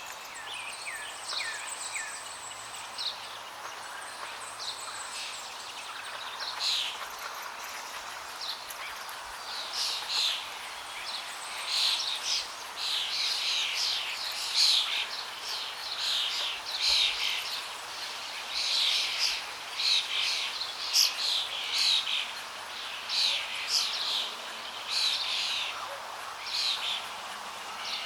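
Songbirds chirping and singing over the steady rush of flowing water. The bird calls are sparse at first and grow into a busy chorus about a third of the way in.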